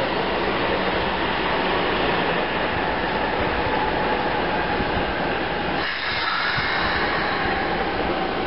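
Keikyu electric commuter train beside the platform, giving a steady loud rush of train noise. About six seconds in, thin high whining tones come in.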